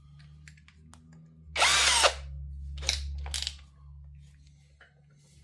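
Electric drill run in two short bursts, the first about half a second long with the motor winding up and back down, the second just under a second later.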